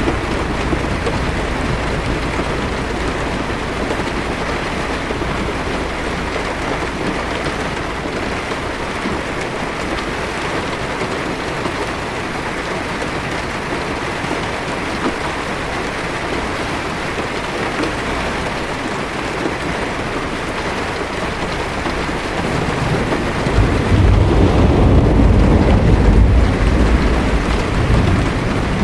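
Steady rain falling on a car's windshield and roof, heard from inside the car. About twenty-four seconds in, a low roll of thunder rumbles for several seconds, the loudest part.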